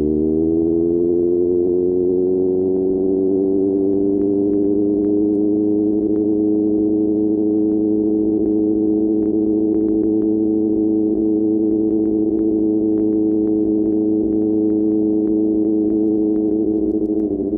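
QJ Motor SRK600's inline-four engine through an SC-Project exhaust, its pitch climbing over the first couple of seconds and then holding steady at cruising speed, dipping slightly near the end.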